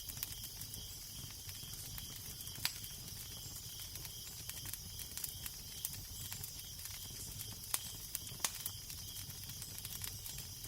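Fire crackling with a steady hiss and scattered small pops, with a few louder pops (one about a third of the way in, two close together near the end), over a low steady rumble of wind.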